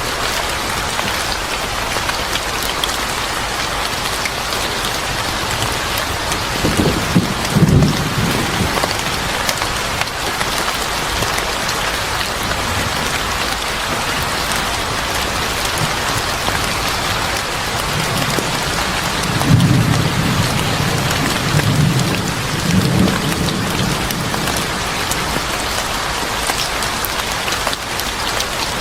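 Steady rain falling, with low rolls of thunder about seven seconds in and again, longer, around twenty seconds in.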